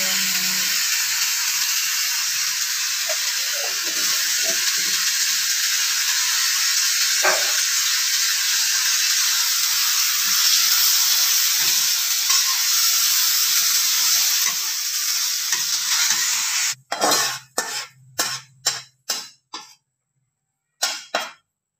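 Food sizzling in a hot wok while a spatula stirs it, with occasional scrapes and clinks of the spatula on the pan. Near the end the sizzling stops and there are a few short, separate scraping sounds as the food is spooned onto a plate.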